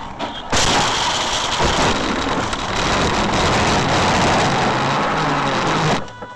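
Loud, steady rushing noise that starts suddenly about half a second in and cuts off abruptly near the end, with a faint rising and falling engine-like tone under it toward the end.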